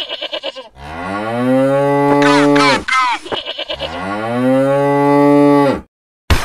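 A cow mooing twice, in two long drawn-out calls that fall away at the end, with short quavering calls before and between them. A sudden crash breaks in at the very end.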